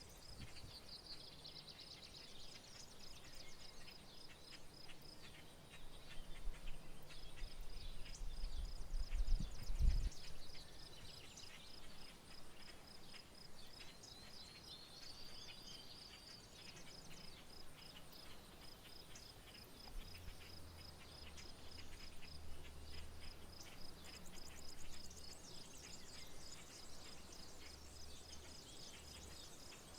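Insects trilling steadily in a fast, even, high-pitched pulse, with birds chirping over it now and then. A low rumble swells about a third of the way in and peaks, then drops away.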